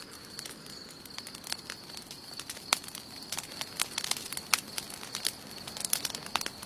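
Wood campfire crackling: irregular sharp pops and snaps, a few much louder than the rest, over a soft hiss of burning.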